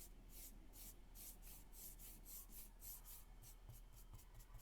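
Faint, steady paintbrush strokes brushing gray paint onto a craft piece, a soft scratchy swish repeating about three times a second.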